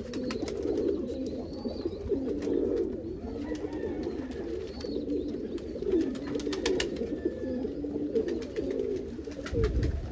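Several domestic pigeons cooing continuously, their low rolling coos overlapping, with scattered sharp clicks and taps.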